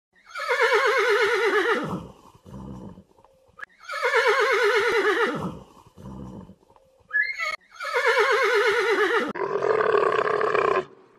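Horse whinnying three times, each a long wavering neigh that falls in pitch. A rougher, lower animal call begins near the end.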